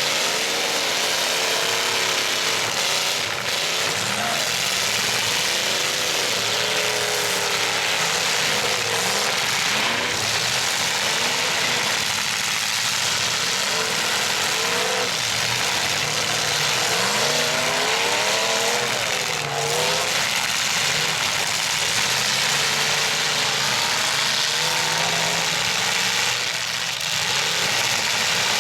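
Several demolition derby pickup truck engines revving and idling, their pitch rising and falling as they rev and let off, with a few short knocks through the din.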